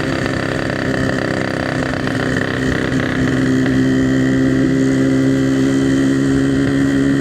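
Yamaha RX-King's single-cylinder two-stroke engine running steadily while the motorcycle is ridden, a constant engine note that gets a little louder about three seconds in.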